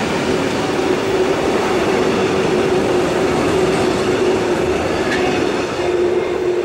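Intermodal freight train's container and tank wagons rolling past on the rails, a loud steady rolling noise with a steady hum running through it, easing a little near the end as the last wagon goes by.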